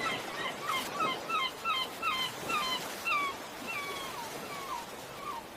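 A dog giving a quick series of short, high whimpering yips, each one sliding down in pitch, about two to three a second, growing sparser after about three seconds.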